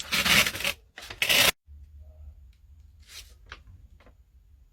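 Packaging being rustled and torn open, with close, loud rustling in the first second and a half, then only a few faint rustles after an abrupt cut.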